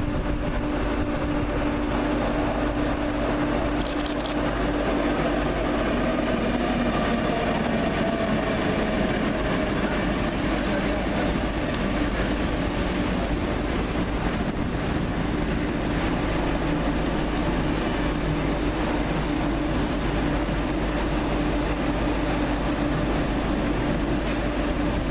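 Train at a station, running steadily with a droning hum and held tones. A few short high squeaks come through, one about four seconds in and two more later on.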